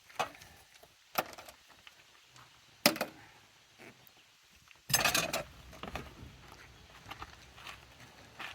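Scattered knocks and clunks as a truck's bench seat, just unbolted, is worked loose from the cab, the sharpest about three seconds in, with a brief scraping rustle about five seconds in.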